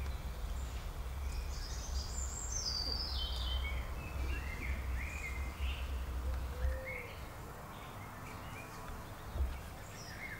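Garden birds singing in the background: a run of notes stepping down in pitch about a second and a half in, then scattered shorter chirps. Under them is a steady outdoor background with a low rumble that drops away about two thirds of the way through.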